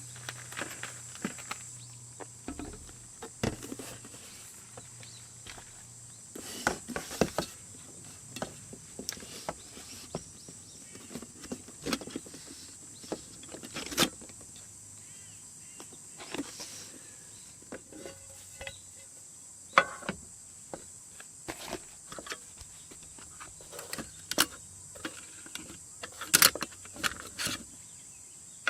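Steady high insect chirring, with scattered sharp clicks and knocks of things being handled.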